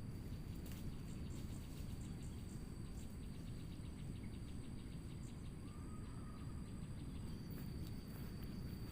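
Forest ambience: insects calling in steady high tones and fast faint ticking, over a low steady rumble.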